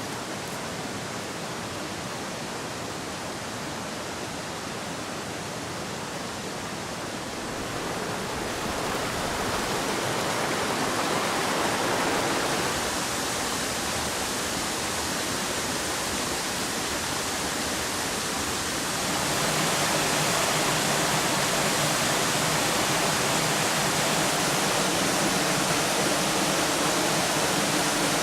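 Steady rush of flowing water from a mountain stream or small waterfall. It gets louder in two steps, about 8 and 19 seconds in.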